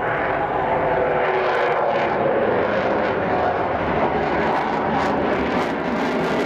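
Fighter jet engines giving a steady, loud jet roar as the aircraft flies its display.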